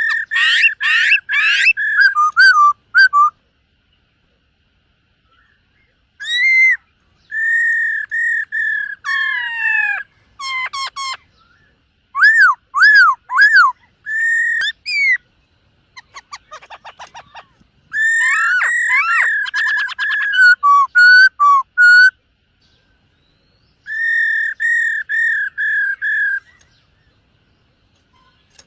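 Black-throated laughingthrush singing loud, clear whistled phrases: quick runs of repeated notes on much the same pitch, some notes sliding down or arching, broken by pauses of one to three seconds.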